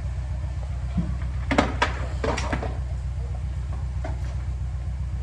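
Heavy diesel engine idling with a steady low throb, with a few sharp metallic knocks and clanks about one and a half to two and a half seconds in.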